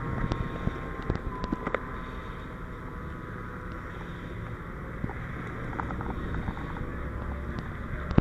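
Steady low rumble of a running vehicle with wind noise on the microphone, and a few faint clicks.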